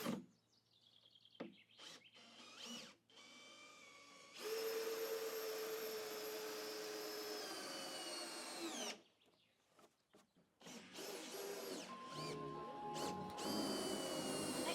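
Cordless drill-driver running steadily for about four seconds, its pitch sinking toward the end as it slows, with shorter bursts of tool noise before and after.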